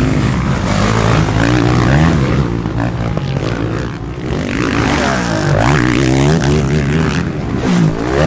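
Motocross bike engines racing, their engine notes overlapping and repeatedly rising and falling as the riders open and close the throttle.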